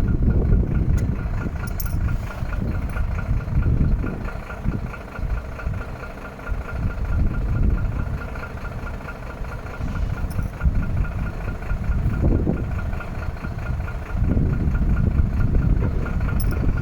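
Iveco AD260S45 truck's six-cylinder diesel engine running with a low rumble and a faint steady whine; its loudness swells and eases a few times.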